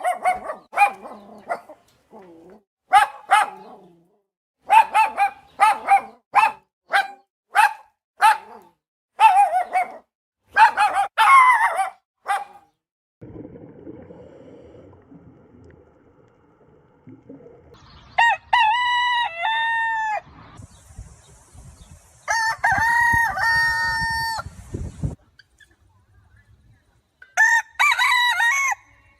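Chickens clucking in quick short calls, then a rooster crowing three times in long drawn-out calls.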